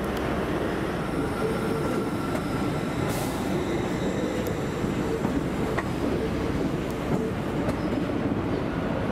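LNER Azuma high-speed train rolling slowly into the platform: a steady rumble of wheels on the rails under the passing coaches, with a faint whine.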